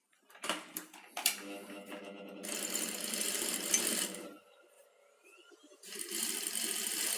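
Sewing machine running in two stretches of a few seconds each, with a short stop between, while stitching a bias (cross-cut) strip around a blouse armhole.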